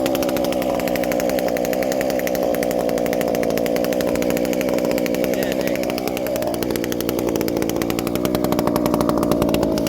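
Two-stroke chainsaw running steadily at high revs, its note sagging slightly about six seconds in and picking back up near the end.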